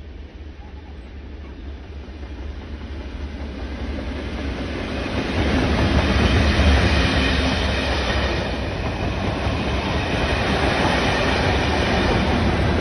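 A train running on rails, growing louder over about the first six seconds and then staying loud.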